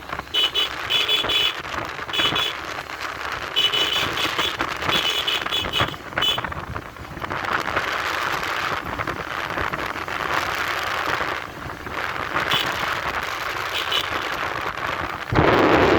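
A vehicle horn beeping in short, repeated blasts for the first six seconds or so, over the steady rush of wind and road noise from a moving motorcycle. Near the end the wind noise suddenly gets much louder.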